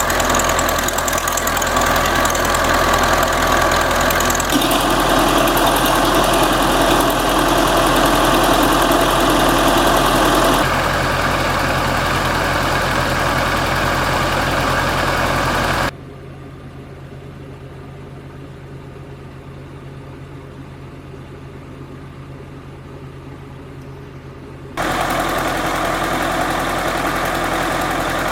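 A farm machine's engine running steadily, heard across several abrupt cuts, with a much quieter, duller stretch in the second half before it returns at full level near the end.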